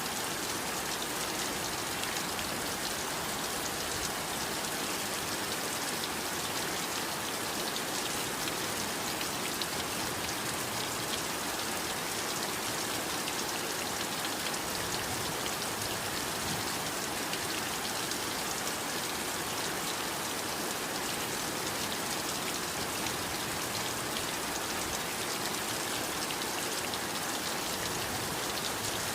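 Steady heavy rain falling, an even hiss of countless drops pattering on surfaces.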